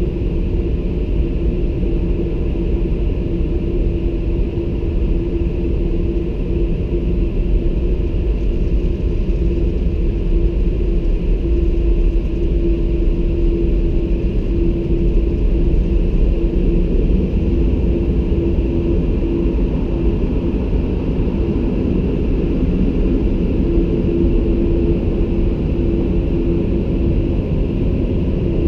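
Automatic car wash machinery running: a steady low rumble with a constant hum.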